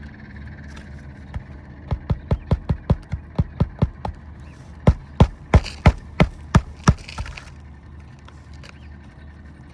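Hammer driving roofing nails into asphalt shingles: two quick runs of sharp strikes, about three or four a second, the second run louder.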